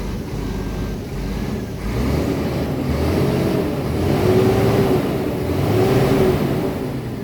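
Scania R tractor unit's diesel engine running just after start-up, revved up twice: the pitch rises and falls, about halfway through and again near the end.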